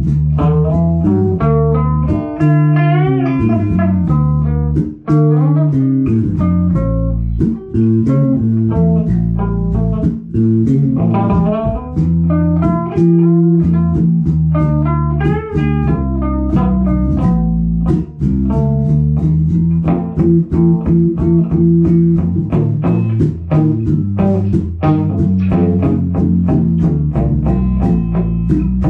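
Guitar and bass guitar playing together: quick plucked guitar notes over a steady bass line, in a bluesy style.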